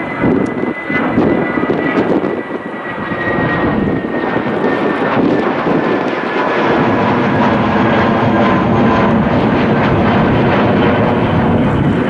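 Jet airliner's engines running loud and steady as the plane passes, with a high whine sliding slowly down in pitch over the first few seconds.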